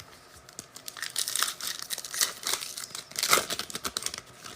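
Crinkling and tearing of a trading-card pack's wrapper as a pack is ripped open, starting about a second in.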